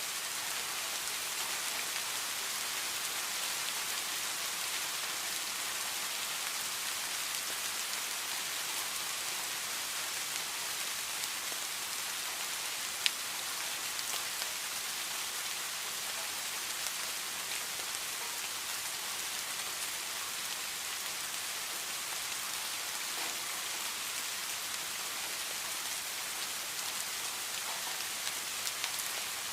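Steady rain falling, an even hiss of many drops, with one sharp tick about halfway through.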